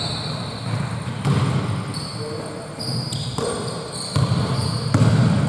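A basketball bouncing on an indoor court several times at an uneven pace, with short high squeaks over it.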